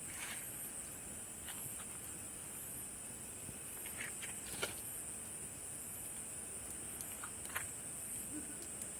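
Campfire wood crackling with a few scattered sharp pops, the loudest about halfway through, over a steady high-pitched chorus of summer night insects.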